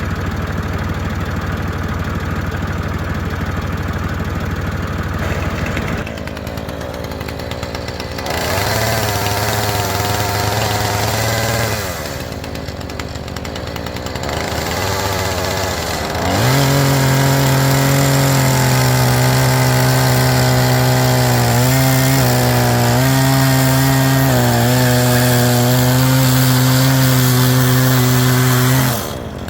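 Chainsaw revved briefly, then run at full throttle for about twelve seconds while cutting a notch into a wooden post. Its pitch dips a few times as the chain bites, and it stops abruptly near the end. A tractor engine idles at the start.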